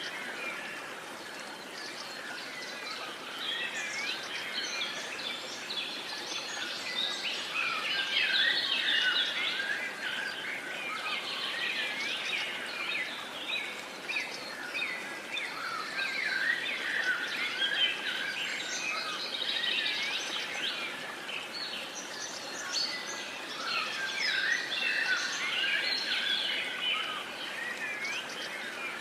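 Dawn-chorus-like birdsong: many small birds chirping and singing at once, overlapping calls with no pauses, over a faint steady hiss.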